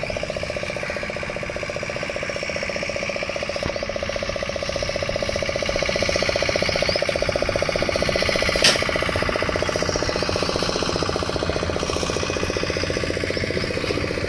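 A boat's engine running steadily with a fast, even rattling throb. A single sharp click sounds a little past halfway.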